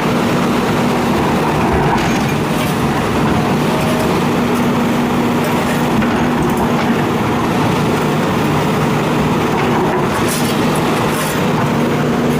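Hitachi excavator's diesel engine running steadily under work, with a few short clanks near the end.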